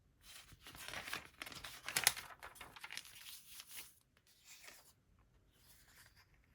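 Paper and cardstock rustling and crinkling as they are handled, loudest about two seconds in, with a few softer rustles near the end.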